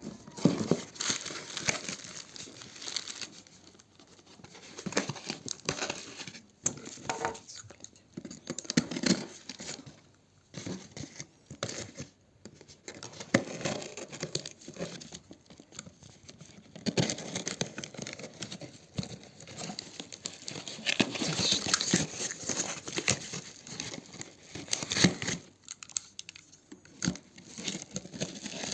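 Packaging crinkling and tearing in irregular bursts with short pauses, as a parcel is unwrapped.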